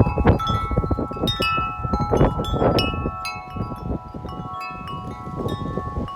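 A 36-inch Corinthian Bells tubular wind chime rung by the wind: its tuned tubes are struck again and again and ring on in overlapping tones. Gusts rumble on the microphone underneath, easing off about halfway through while the tones keep ringing.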